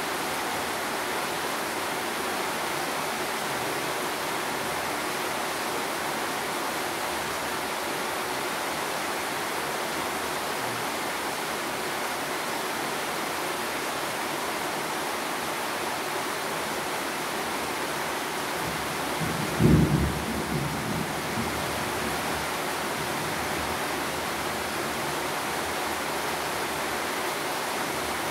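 Steady rain, an even hiss. Near the end a short low thump stands out once above it.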